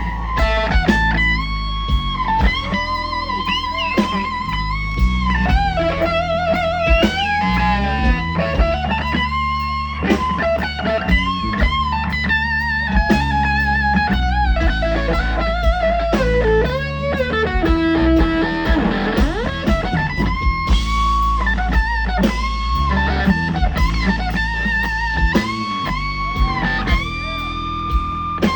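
Live blues band: an electric guitar plays a slow, singing solo with vibrato and string bends, including a deep swoop down and back up about two-thirds of the way through, over bass guitar and drums.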